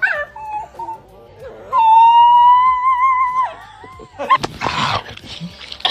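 A dog's long, high-pitched, howl-like whine, held on one wavering note for nearly two seconds, followed about a second later by a short rough, noisy vocal sound.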